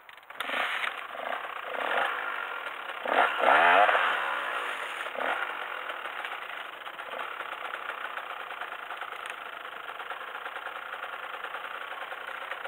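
KTM off-road motorcycle engine starting about half a second in, revved up and down several times with the loudest rev around four seconds, then settling into a steady idle.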